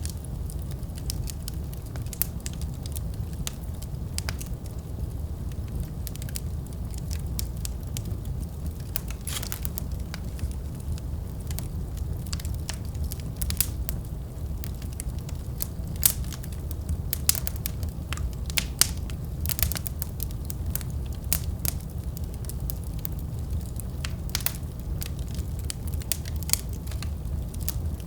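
Wood fire burning in a fireplace: a steady low rumble with irregular sharp crackles and pops, busiest through the middle.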